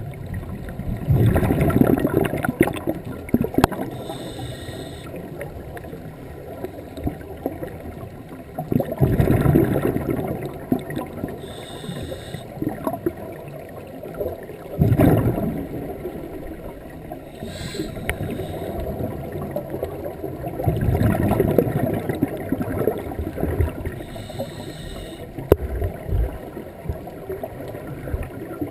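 Scuba diver breathing through a regulator underwater: a short inhale hiss through the demand valve, then a longer rush of exhaled bubbles, about four breaths in all.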